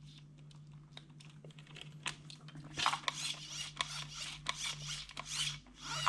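RC truck steering servo being worked back and forth: scattered small clicks, then from about three seconds in, short whirring bursts about twice a second over a steady low hum. The servo is suspected of having lost a tooth or two on its gears, making the steering jump.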